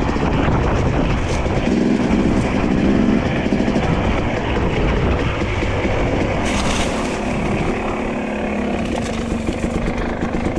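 Dirt bike engine running while riding, its note strongest about two seconds in and again from about six seconds, under heavy wind noise on the microphone.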